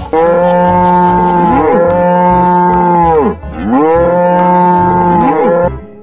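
Cow mooing: two long moos of about three seconds each, the second beginning about three and a half seconds in, each holding its pitch and then dropping away at the end.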